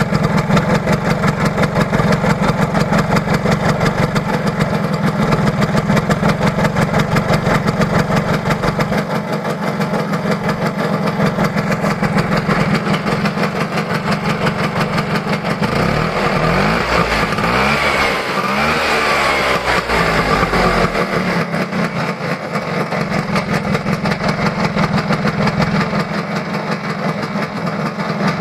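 Vespa PX125 single-cylinder two-stroke engine idling with a steady, fast putter. Beneath it is a faint noise from the crankshaft bearing, which the owner takes for a bearing that is starting to wear. Around the middle a rising and falling whine comes in for a few seconds.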